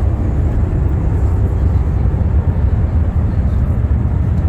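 Steady low rumble of an ICE high-speed train running at speed, heard inside the passenger cabin.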